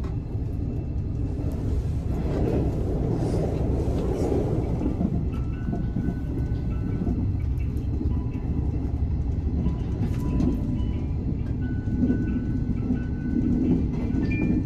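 Cabin noise of a Series 381 tilting electric express train running at speed: a steady low rumble from wheels and running gear, with thin high tones coming and going from about halfway in.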